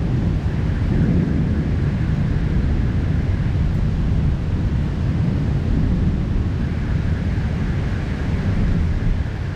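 Heavy rain falling in a steady downpour, an even rushing noise with a deep undertone.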